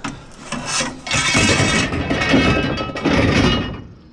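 Metal junk being dragged and shifted in a scrap pile: a few knocks, then about two and a half seconds of scraping and clattering with some metallic ringing.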